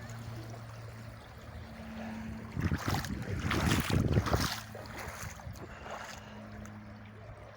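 Wind buffeting the microphone on an open beach, gusting hardest for a couple of seconds mid-way, over a faint steady low hum.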